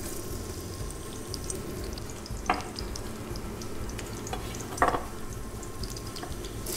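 Sliced garlic frying in olive oil in a stainless-steel cataplana: a steady sizzle with small crackles. Two brief louder sounds stand out, about two and a half and five seconds in.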